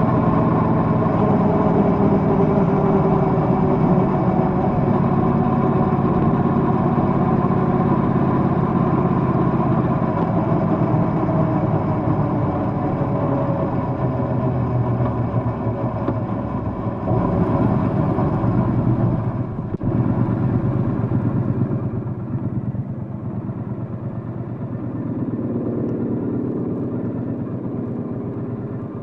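Triumph Bonneville Bobber's parallel-twin engine running while riding, under a steady rush of noise. About two-thirds of the way through, the engine note drops and gets quieter.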